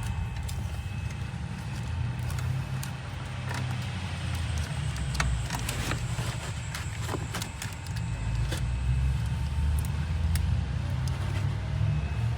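Scattered small clicks and rustles of wiring harness and plastic trim being handled and pressed into place, over a steady low rumble.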